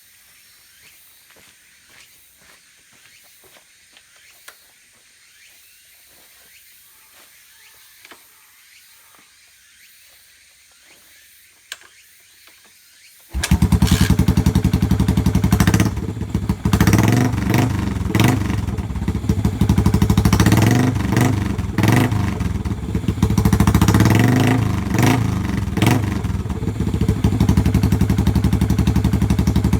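Yamaha SR400's air-cooled single-cylinder four-stroke engine: after a stretch of faint clicks, it catches suddenly about 13 seconds in and runs loud. It swells and dips with the throttle for about ten seconds, then settles to a steady idle.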